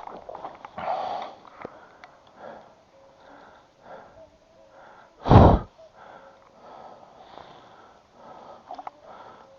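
A person sniffing and breathing, with soft, short puffs every second or so. A single loud, muffled bump comes about five seconds in.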